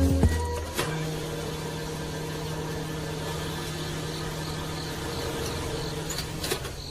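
A small motor running with a steady hum, coming in about a second in after a louder passage and fading near the end.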